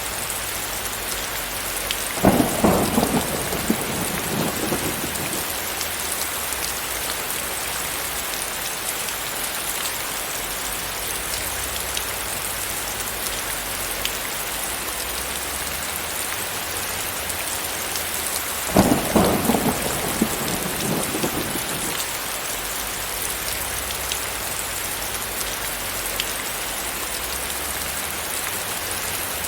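Steady heavy rain hissing, with two claps of thunder, about two seconds in and again about sixteen seconds later, each breaking suddenly and rumbling away over two or three seconds.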